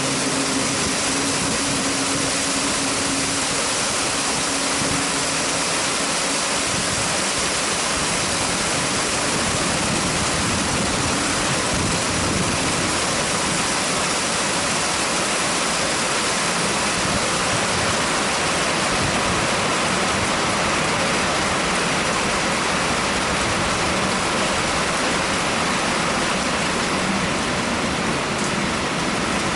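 Heavy rain pouring down in a steady, even rush. A low engine hum fades out in the first few seconds.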